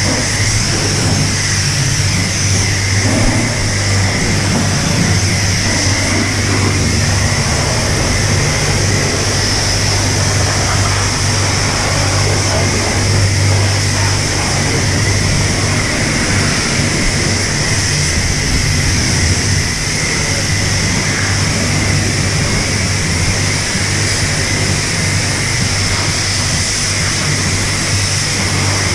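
Self-service car wash high-pressure wand spraying water onto a car: a steady hiss over a steady low hum.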